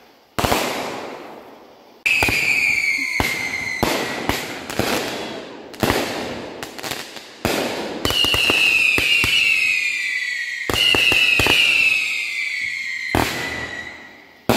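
Fireworks going off: a run of sharp bangs and crackling pops, with three long shrieking whistles that fall slowly in pitch.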